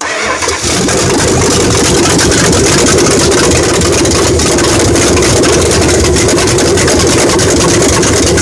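Freshly rebuilt 440 big-block V8 running loud and raw at a raised idle, its exhaust open at the manifolds, firing in a fast, even stream of pulses. It cuts in abruptly at the start.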